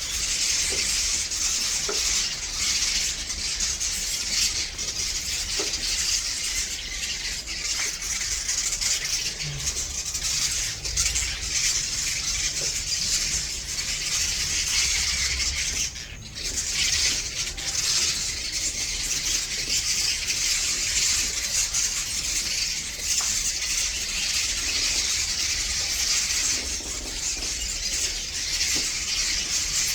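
A flock of swiftlets gathered at their roost, making dense, non-stop high chirping from many birds at once, with a brief dip about sixteen seconds in. A steady low rumble runs underneath.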